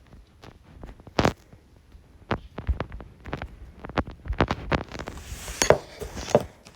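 Scattered knocks and taps of mini hockey sticks, ball and players moving on the floor during knee hockey, a few a second, busier and louder near the end.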